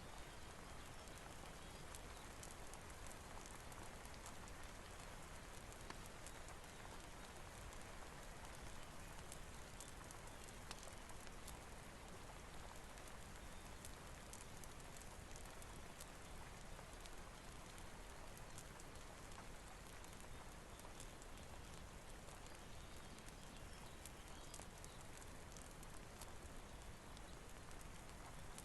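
Faint, steady rain mixed with a crackling fireplace: an even hiss dotted with many small ticks and pops.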